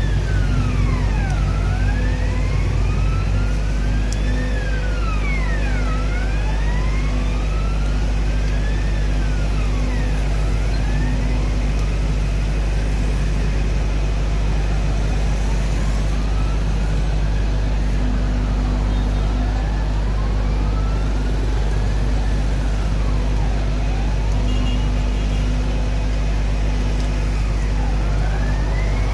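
Fire truck siren wailing, its pitch climbing slowly and dropping quickly every few seconds, over the steady low drone of a truck engine.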